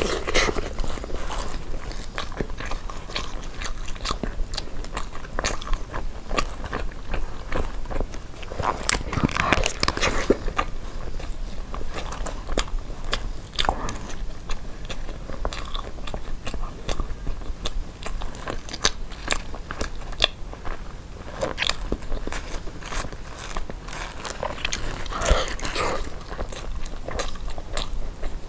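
Close-miked chewing and biting of a sticky rice zongzi with egg yolk filling: wet, sticky mouth clicks and smacks throughout, mixed with the crinkle of the bamboo-leaf wrapper in her hands.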